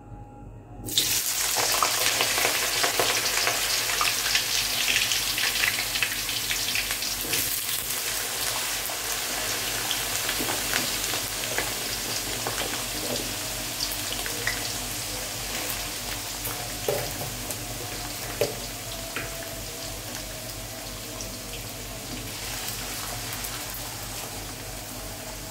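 Cubed potatoes dropped into hot oil in a wok, setting off a loud sizzle that starts suddenly about a second in and slowly eases as they fry. A few sharp taps of the slotted spatula against the pan come later.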